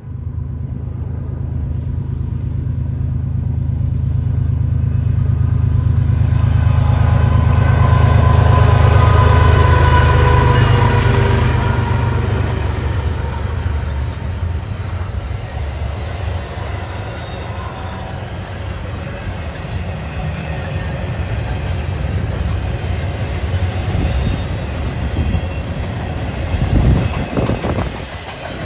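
Freight train passing: two CN diesel locomotives go by with a deep engine drone that builds to its loudest about eight to ten seconds in. After them comes the rumble and clatter of double-stack container cars rolling over the rails, with sharper wheel clacks near the end.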